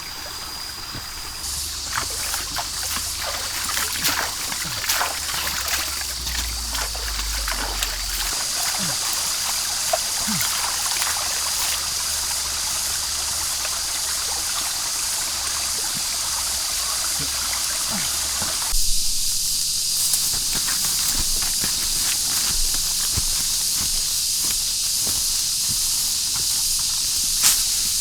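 Footsteps and rustling through forest undergrowth, with scattered clicks and cracks that are thickest in the first ten seconds. Under them runs a steady high-pitched hiss with a thin constant whine, heard through to the end.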